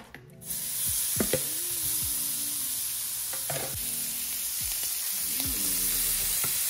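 Raw shrimp hitting hot avocado oil in a small nonstick skillet. They start sizzling about half a second in and keep up a steady frying hiss, with a few light clicks of a spatula against the pan.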